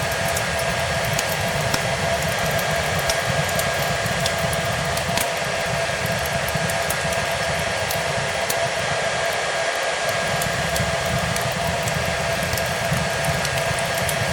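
Hair dryer running steadily, an even rush of air with a constant motor whine, mixed with the scattered small crackles and pops of a fireplace fire.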